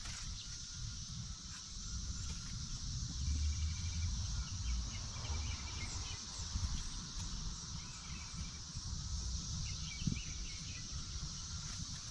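Steady high-pitched drone of periodical cicadas, with a few short bird chirps about three seconds in and again near ten seconds, over a low rumble.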